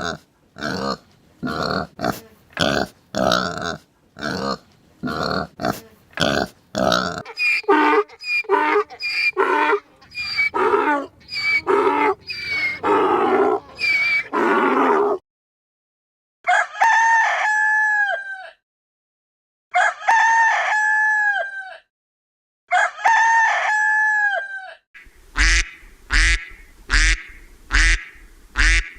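A run of farm-animal calls: hens clucking in quick repeated calls first, then a different series of short calls, then three long held calls with a steady pitch. Near the end a new series of short calls starts, duck quacking.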